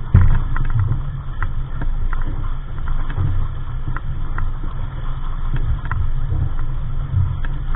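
Wind rumbling and buffeting on the microphone aboard a small sailboat under way, with scattered light taps and slaps of water against the hull.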